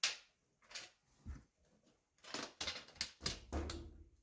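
Hand tools and hardware being handled while marking out on a wall: a few separate sharp clicks and taps, then a busier run of clicking and rustling in the second half.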